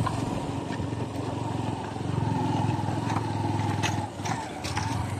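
Motorbike engine running steadily while riding, its level dipping and rising slightly. A few sharp clicks and knocks come through near the end.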